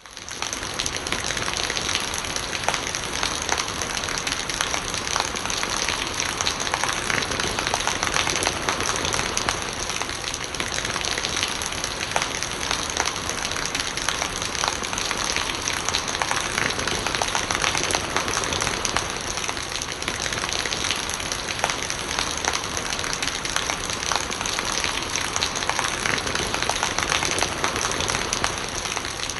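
Steady rain falling, a dense patter of drops on hard surfaces with rainwater gurgling as it runs off. It comes in abruptly from silence at the start and then holds at an even level.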